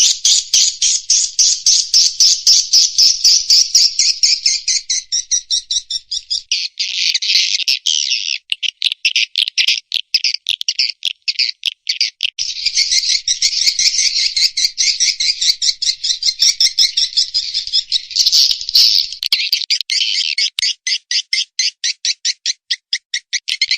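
Recorded swiftlet calls played as a lure sound for a swiftlet house: dense, high-pitched chirring twitters alternating with stretches of rapid, evenly spaced clicking chirps.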